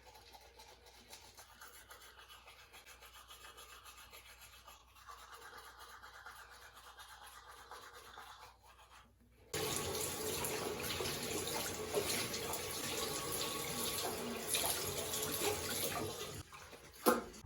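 Faint sounds at first, then from about halfway a steady rush of water running from a tap into a sink, cut off by a short click near the end.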